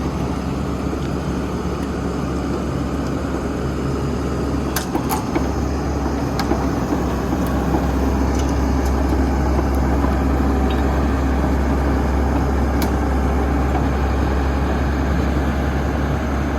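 Diesel engine of a new Sany SY210C-9 hydraulic excavator running steadily, getting a little louder about eight seconds in, with a few sharp clicks around five, six and a half and thirteen seconds in.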